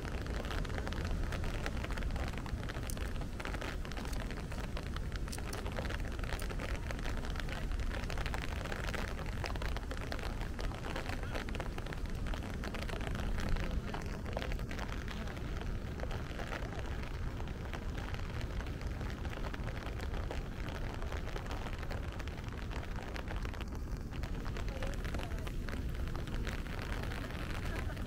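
Steady rain falling, heard as a continuous hiss dotted with many small drop ticks over a low rumble.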